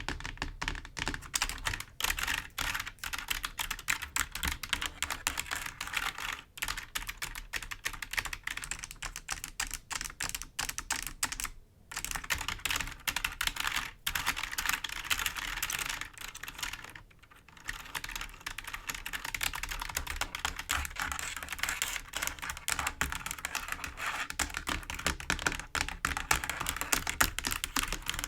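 Fingers tapping and scratching on the clicky keys of a computer keyboard: a dense, rapid run of clicks and rubbing, with two brief pauses near the middle.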